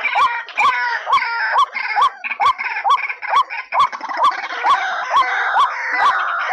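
White-breasted waterhen calls played as a lure. Short notes that rise and fall repeat about twice a second, each with a sharp click, over a busy chatter of higher-pitched calls.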